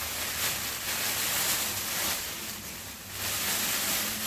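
Mylar sheet rustling and crinkling as it is handled and hung up, a hissy crackle that eases off briefly about two seconds in.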